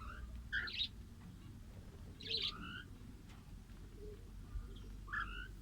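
Small pet parrots chirping in three short bursts of calls.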